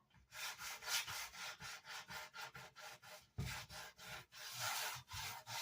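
Sandpaper rubbed back and forth by hand on the wooden speaker baffle of a Vox AC30, smoothing its edges: quick scratchy strokes about four a second, then a few longer, slower strokes.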